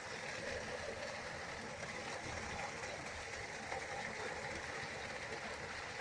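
River water flowing, a steady, even rushing noise with no breaks.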